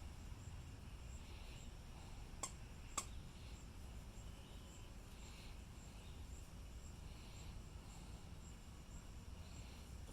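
Faint steady background rumble with two sharp clicks about half a second apart, a few seconds in, and a faint high ticking repeating about twice a second.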